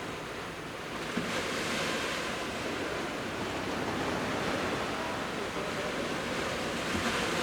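Sea waves breaking and washing up on a beach. Over a steady wash of surf, one wave surges in about a second in and another near the end.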